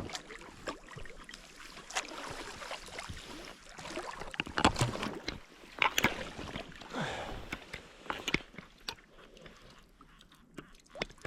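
Wet handling noises close to the microphone: irregular splashes, squelches and clicks, over a steady rush of river water.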